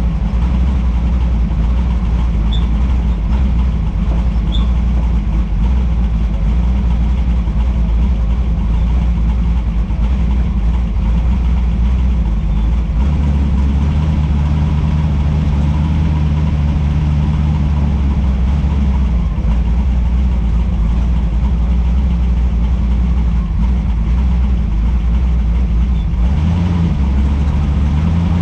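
Car engine running steadily with a deep, low note. Its tone shifts about halfway through and rises near the end.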